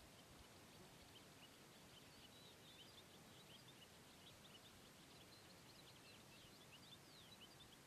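Near silence: a faint hiss with many quick, high chirps of small birds, thicker in the second half.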